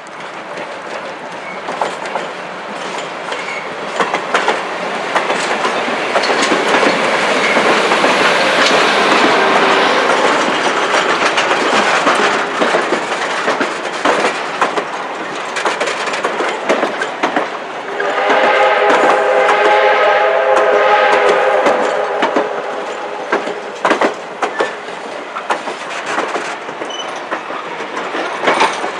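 A train passing close by, its wheels clicking over the rail joints, loudest through the middle. It sounds its horn once, a steady multi-note chord lasting about four seconds, about two-thirds of the way through.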